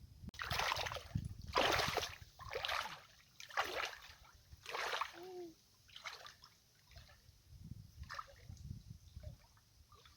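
Shallow lake water splashing, in a run of splashes about a second apart, dying down to faint trickles and drips after about six seconds.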